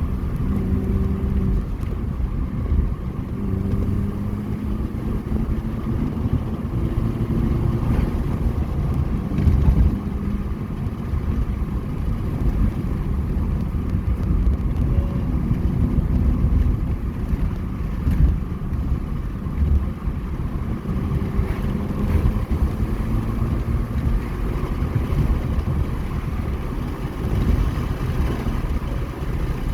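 Mini Cooper S R53's supercharged 1.6-litre four-cylinder engine running while driving, its pitch rising and falling several times as the car accelerates and eases off, over a steady low road rumble.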